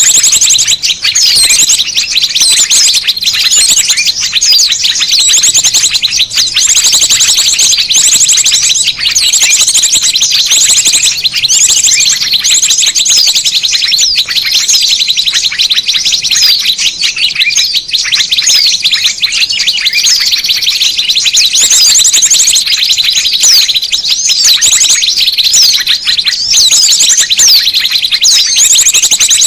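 Dense, unbroken chorus of many small birds chirping and twittering rapidly at high pitch: a mixed bird-lure recording made to call in small birds.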